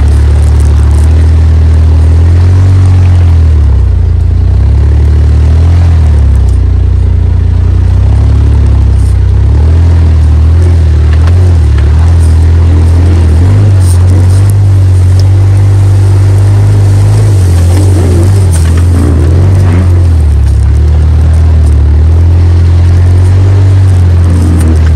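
Suzuki Jimny JB23's 660 cc three-cylinder turbo engine driving off-road, its note rising and falling as the throttle changes over a heavy, steady low rumble.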